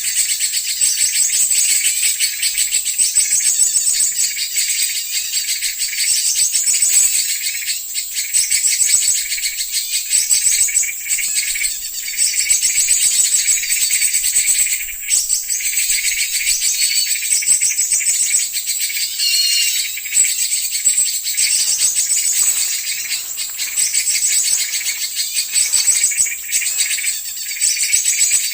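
Bird-lure recording of many small birds chirping and twittering at once: a dense, continuous, high-pitched chorus.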